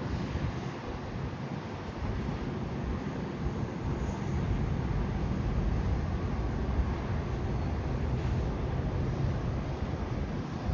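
Steady low rumbling outdoor noise in winter cold, without distinct events, swelling slightly a couple of seconds in.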